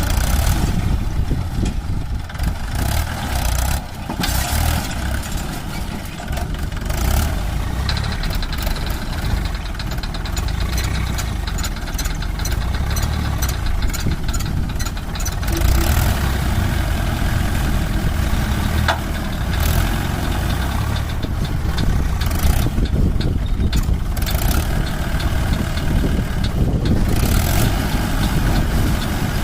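Heavy diesel engines of a backhoe loader and a tractor running steadily while mud is loaded.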